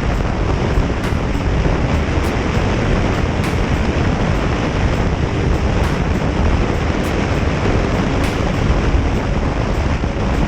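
Steady rush of wind on the microphone, mixed with the drone of a motorcycle's engine and tyres on the road, while riding at speed.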